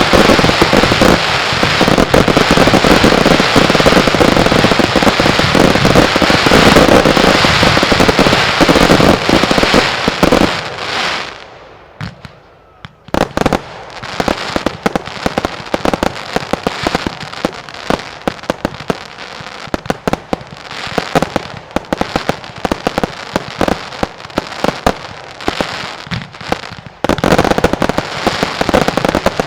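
Mascletà firecrackers: a dense, continuous barrage of rapid-fire bangs and crackling that dies away about eleven seconds in. After a brief lull, a fast chain of separate sharp reports starts up and swells back into a dense barrage near the end.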